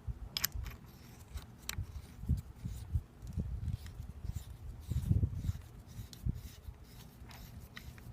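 Handling noise as a garden hose end is fitted onto a step-on dog water fountain: a few sharp clicks and scattered low knocks, the loudest about five seconds in, over a low rumble.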